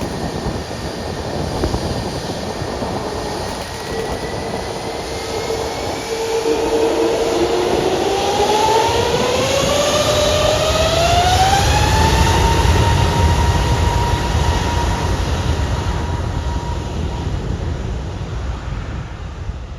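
Airbus A320's jet engines spooling up to takeoff thrust: a whine rises in pitch over several seconds, then holds steady over a growing rumble that peaks and begins to fade near the end.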